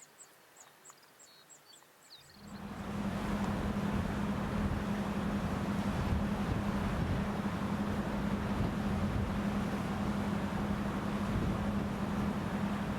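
Rapid high chirps from a small bird or insect, then, about two seconds in, a sudden change to a boat engine running steadily: a constant low hum under a loud rushing of wind and water.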